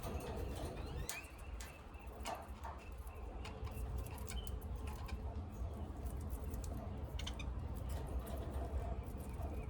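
Pet lovebirds and budgies in a cage giving short, scattered chirps among sharp clicks and taps, over a steady low hum.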